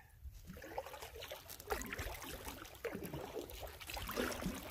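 Canoe paddle dipping and pulling through calm water, with water trickling and dripping off the blade in an irregular run of soft splashes.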